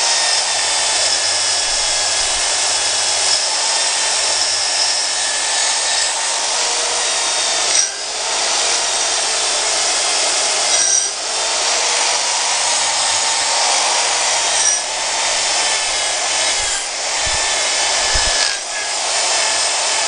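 Handheld rotary power tool running steadily against the metal of a Suzuki B105P two-stroke engine, cleaning it up, with a few brief breaks where it lifts off the work.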